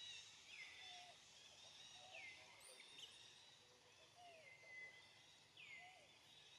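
Faint outdoor ambience with a bird repeating a short downward-sliding call four times, about every one and a half to two seconds, over a steady hiss.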